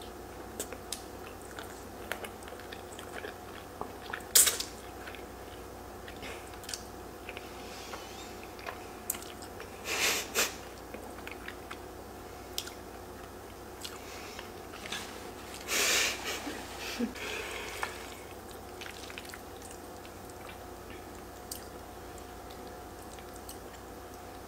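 Close-up wet chewing and slurping of creamy fettuccine alfredo noodles, with scattered small clicks and a few louder noisy slurps, the loudest about 4, 10 and 16 seconds in.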